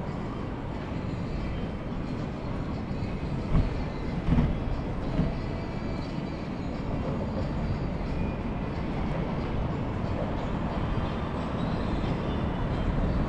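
Steady low rumble of street and vehicle noise during a bike ride, with a few brief knocks about four seconds in.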